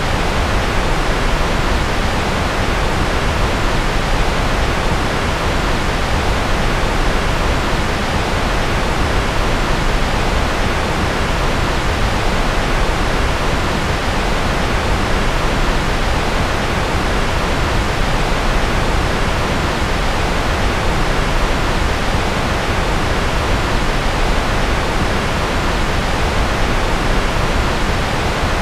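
Steady, unchanging synthetic noise of the kind played as white noise for focus: a full, even hiss with more weight in the low end than the high.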